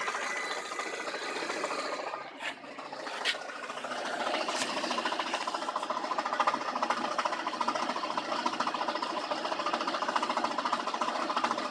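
Lada Granta's 2181 manual gearbox knocking with a fast, steady rattle while the car runs, a knock that the owner says stops when the clutch is pressed and that a new clutch release bearing did not cure. The rattle eases briefly about two seconds in, with a couple of clicks, then comes back.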